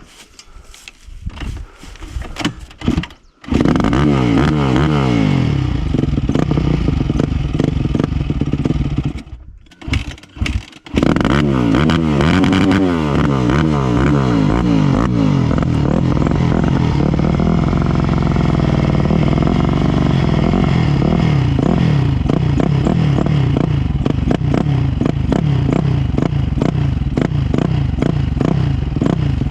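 Dirt bike engine being started while it pours too much fuel and holds a high idle. It catches a few seconds in and revs, dies about nine seconds in, then fires again about a second later and keeps running, revved up and down repeatedly.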